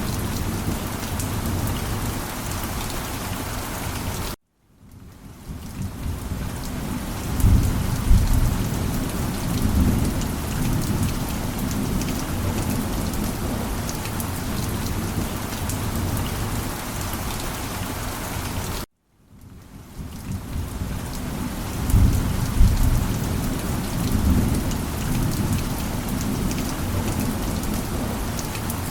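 Steady heavy rain with low rolls of thunder, one about 7 to 10 seconds in and another about 22 to 24 seconds in. Twice the sound cuts out abruptly for a moment and fades back in, the seam of a looped recording.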